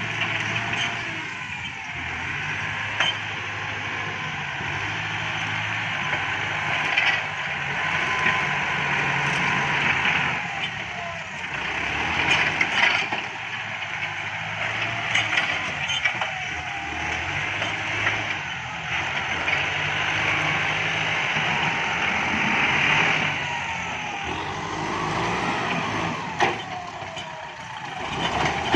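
Kubota MU5702 tractor's diesel engine working under load, its pitch rising and falling as it pushes through brush, with scattered sharp cracks of wood breaking.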